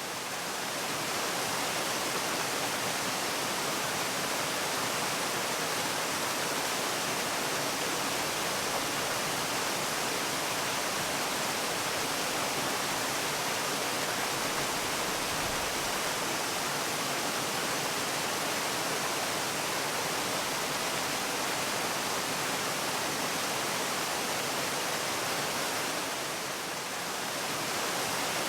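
Steady rush of falling water from a waterfall, an even hiss with no breaks. It briefly softens near the end.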